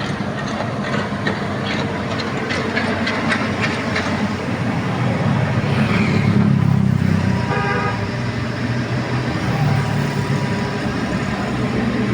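Excavator diesel engine running under load, with repeated metallic clanking over a steady rushing hiss. A brief high-pitched whine sounds about eight seconds in.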